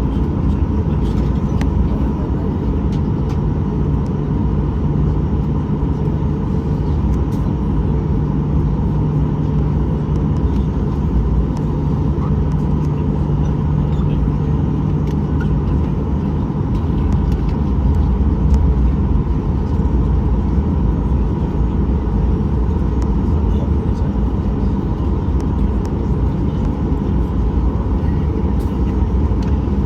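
Cabin noise of a Boeing 737-800 heard from a window seat above the engine: its CFM56 engine running steadily with a deep hum and a thin, steady whine.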